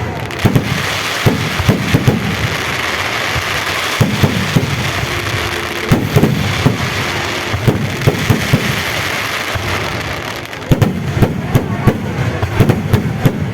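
Fireworks going off without pause: a steady crackling hiss under many sharp bangs, the bangs coming thickest near the start, around six to eight seconds in, and again from about eleven seconds.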